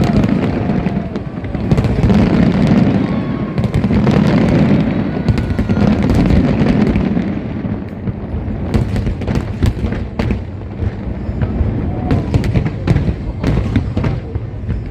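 An aerial fireworks display going off continuously: a dense, rolling booming of shell bursts, then from about eight seconds in a rapid run of sharp cracks and crackles.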